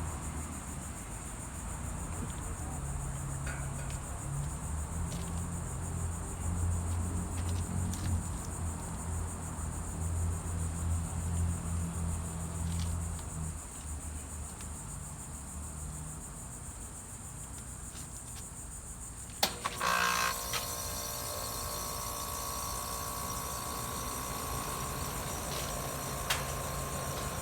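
A steady high-pitched insect chorus, then about two-thirds of the way in a sharp click as a 2014 2-ton American Standard Heritage 13 heat pump starts up, settling into a steady, very quiet running hum with a held tone.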